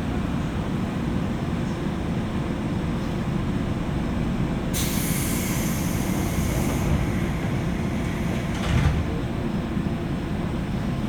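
Running noise inside a JR West 201 series electric train's motor car, heard over its armature chopper: a steady low rumble, with a hiss that starts suddenly about five seconds in and lasts about two seconds.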